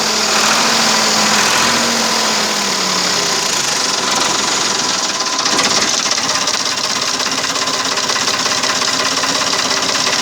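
Ford 3600 tractor's three-cylinder diesel engine idling with a steady, rapid clatter.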